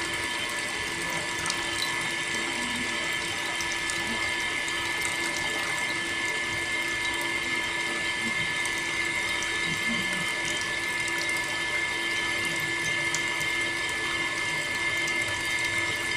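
Small water pump on a homemade toy tractor running steadily with a constant whine, water spraying and splashing.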